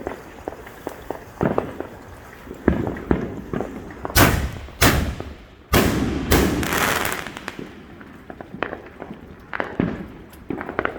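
Consumer fireworks going off: scattered pops, then four loud bangs in quick succession about four to six seconds in, followed by a brief crackle.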